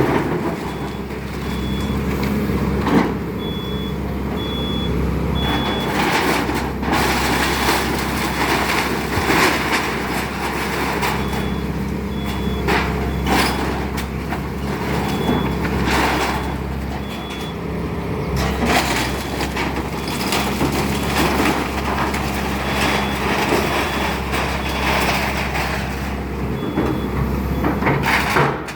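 Excavator diesel engine running steadily under load, with repeated cracks, knocks and crashes of a house being torn apart.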